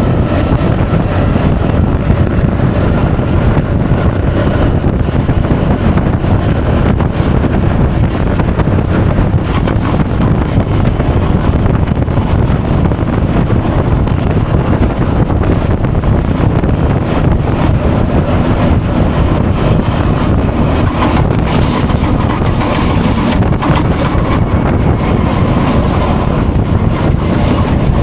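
Honda Forza 350 scooter on the move: steady wind rush buffeting the action camera's microphone over the engine and road noise, with a faint whine in the first few seconds.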